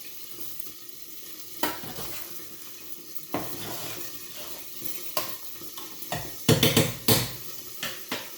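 Bratwurst sizzling in a frying pan, with a utensil knocking against the pan every second or two and a quick run of louder clatters about six and a half seconds in.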